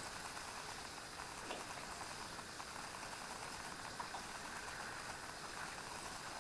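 Hand washing at a sink: a steady hiss of running water with a few small squelches and splashes from the hands.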